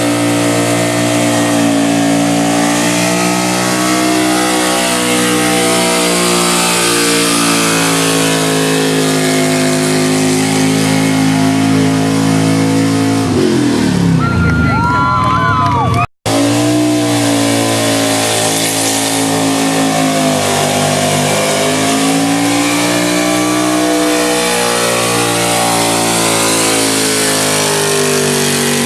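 A competition 4x4 truck engine running hard at high revs, its pitch wavering up and down as it works under load. About thirteen seconds in the engine note drops off and a high whistling tone rises briefly; the sound then cuts out for an instant before the engine picks up again at full throttle.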